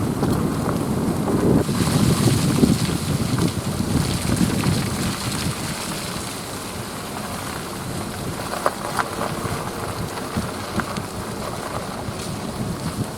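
A vehicle rolling slowly, with steady road and tyre noise and wind rumbling on the microphone. It is louder in the first few seconds, then eases, with a few light clicks about nine seconds in.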